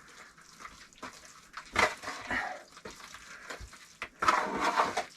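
Wet clay being scraped and spread while laying stove bricks, in two main squelchy scraping bursts about two and four seconds in, with a few light clicks and knocks between.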